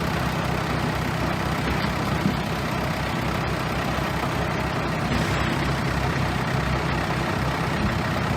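Bulldozer's heavy diesel engine running steadily.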